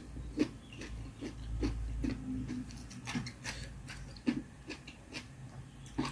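Close-up eating sounds: irregular small clicks and mouth smacks of someone chewing a spicy mala hotpot with noodles and vegetables.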